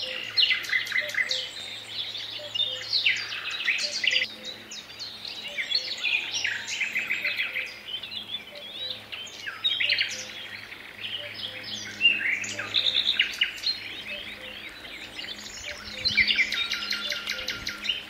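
Several songbirds singing at once: a dense chorus of overlapping rapid trills and short chirps, with a loud burst of trilling again near the end.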